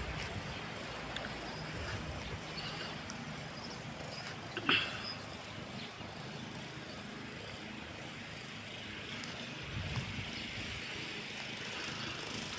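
Steady outdoor background noise with a faint low hum, broken by one short sharp sound about five seconds in and a softer one near ten seconds.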